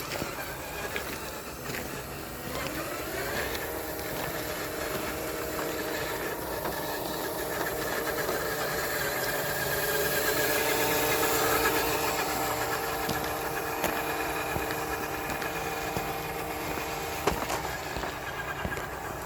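Ready-to-run JD Models F-150 scale RC truck driving, its electric motor and gears whining: the pitch rises about two seconds in, holds steady, and cuts off near the end.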